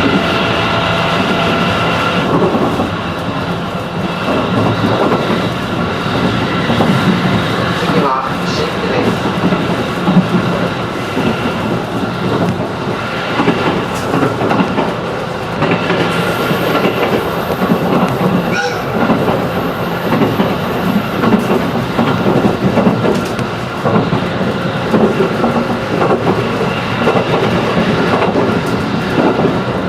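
Running noise inside a JR 211-series electric multiple unit: a steady rumble of wheels and traction motors, with a couple of sharp clicks from the wheels over the track, one about eight seconds in and one near nineteen seconds.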